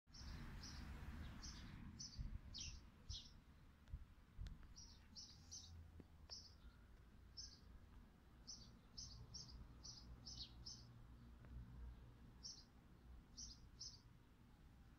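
A small bird chirping, short high chirps repeated about twice a second with small gaps, faint, over a low rumble.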